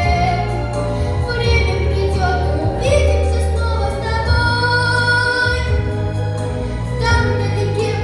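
A ten-year-old girl singing a song, holding long notes with gliding pitch over instrumental accompaniment with a steady bass.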